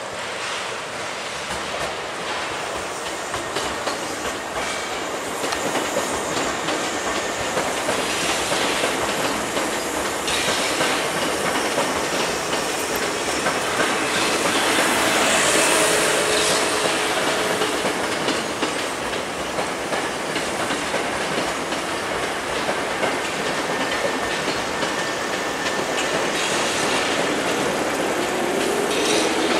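Hankyu maroon electric commuter trains passing close by on the Kyoto Line, their wheels running over the rails in a steady rumble that is loudest about halfway through. A short rising whine near the end.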